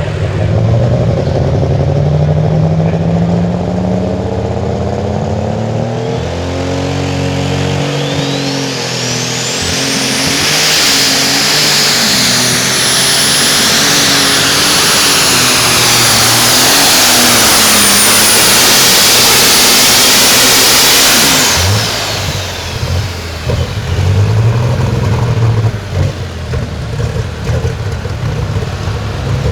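Turbocharged diesel pulling engine under full throttle on a pull. Its pitch climbs over the first several seconds, then a high turbo whistle rises and holds for about ten seconds. About 21 seconds in the engine is shut off and the whistle winds down, leaving a lower, uneven engine sound.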